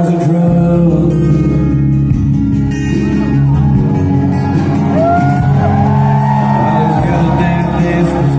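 Live country-rock band playing in a large hall, steady bass and guitar, with a lead line bending in pitch about halfway through.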